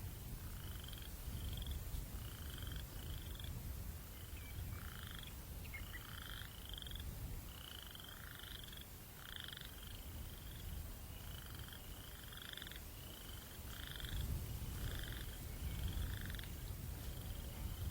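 Night chorus of short, slightly rising chirps, often in pairs and about two a second, over a low rumble of breeze that swells about three-quarters of the way through.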